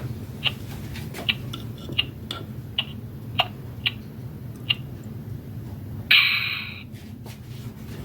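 Baby Alive My Super Snackin' Baby doll being fed: a run of short sharp plastic clicks about every half second, then a brief loud harsh noise burst about six seconds in.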